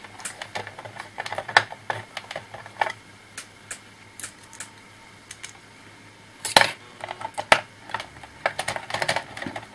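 Irregular small clicks and clinks of tiny screws being set back into their posts and plastic laptop casing parts being handled, with a brief flurry of clatter about six and a half seconds in.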